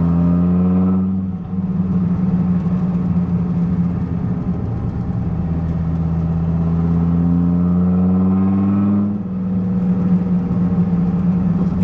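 1997 Dodge Viper GTS's 8.0-litre V10 pulling under acceleration, its pitch rising steadily. It drops briefly for a gear upshift about a second and a half in, and again about nine seconds in.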